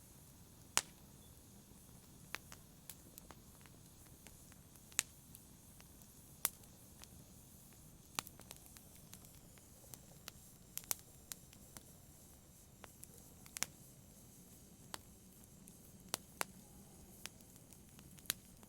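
Wood fire crackling in a fireplace: irregular sharp pops and snaps, roughly one a second, over a faint low hiss.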